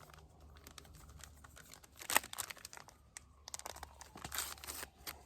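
Paper seasoning packets being torn open and crinkled: irregular crackling and rustling, loudest about two seconds in and again near the end.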